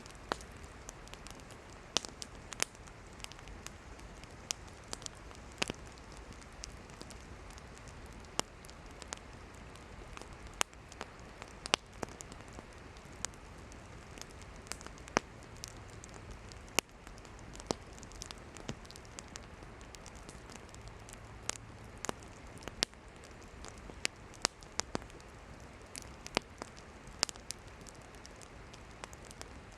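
Campfire of burning firewood crackling, with sharp irregular pops and snaps over a steady low hiss of the flames.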